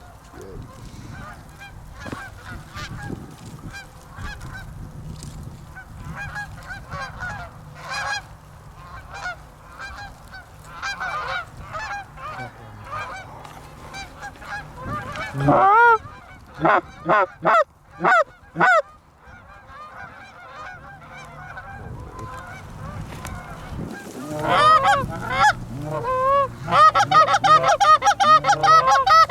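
Canada goose honks and clucks. Many quieter calls overlap at first; around the middle come four loud honks, and a fast, loud run of clucks fills the last few seconds.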